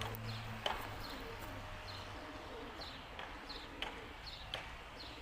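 Domestic pigeon cooing in low, wavering calls, with a few sharp clicks or taps in between. A steady low hum stops shortly after the start.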